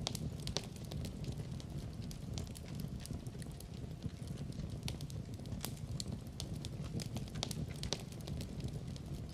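Fireplace fire crackling: frequent sharp, irregular pops and snaps over a steady low rumble of the flames.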